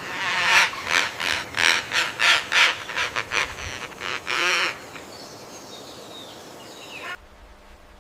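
A bird giving a rapid series of loud, harsh calls, about three a second, for roughly four and a half seconds, then quieter. The sound cuts off abruptly about seven seconds in.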